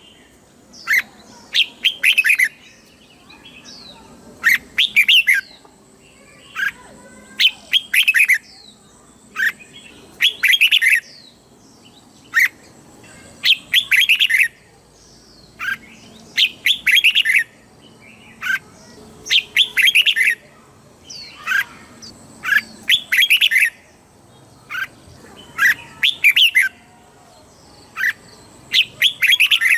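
Red-whiskered bulbul singing its short, quick warbled phrases, one loud phrase about every three seconds, with softer notes in between. This is the song that keepers play to caged bulbuls to train or excite them.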